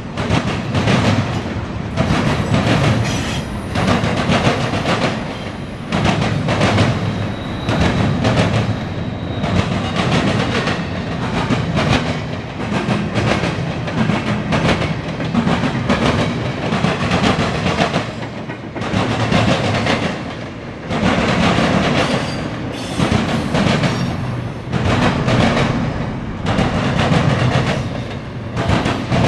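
Norfolk Southern intermodal freight train rolling past close by, its wheels clacking steadily; the sound swells and dips about every two seconds as the cars go by.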